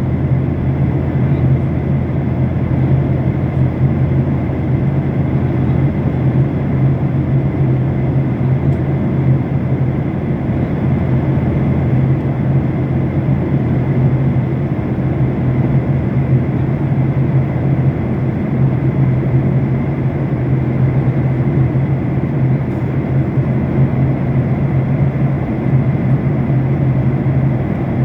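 Steady cabin noise of an airliner in flight: a constant low drone with rushing air, unchanging throughout.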